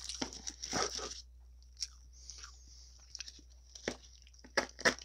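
Close-miked eating: chewing and crunching food, dense for the first second, then quieter, with a few sharp clicks and crunches near the end, the loudest just before it ends, as a fork picks salad from a plastic bowl.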